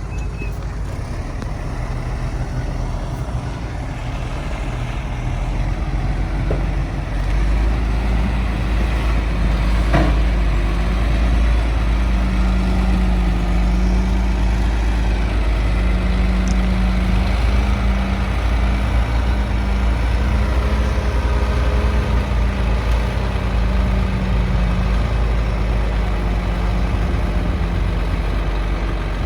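Heavy dump truck's diesel engine running steadily, getting louder about seven seconds in and holding there, with a single knock about ten seconds in.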